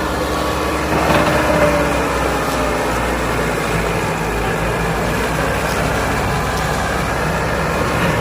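Tractor's diesel engine running steadily with a low, even pulse, briefly a little louder about a second in.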